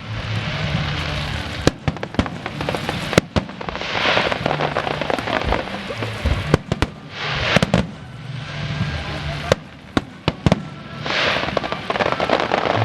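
A run of sharp cracks and pops, with three longer crackling, hissing swells spaced a few seconds apart, over a low steady hum.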